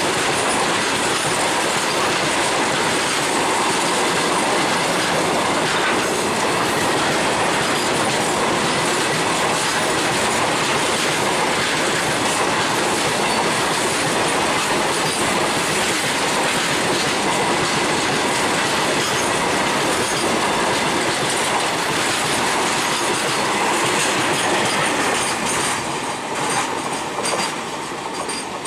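Long loaded freight train's covered box wagons rolling past at speed: a steady, loud clatter of steel wheels over the rail joints. The sound eases off near the end as the last wagons go by.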